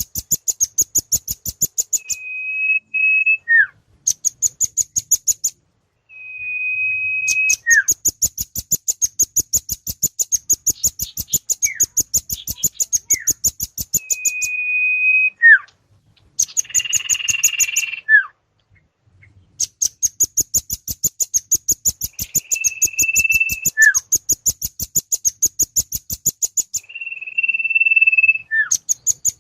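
Bird-lure recording of velvet-fronted nuthatch (rambatan) and sirtu calls. Long runs of rapid, high ticking notes, many a second, are broken every few seconds by a short steady whistle and a quick falling note, with a few brief pauses.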